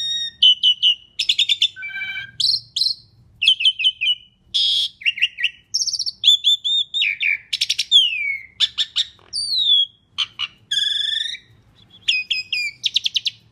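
Asian pied starling (jalak suren) singing a long, varied song in quick succession: clear whistles, sliding notes that rise and fall, and buzzy rattling phrases, separated by short pauses.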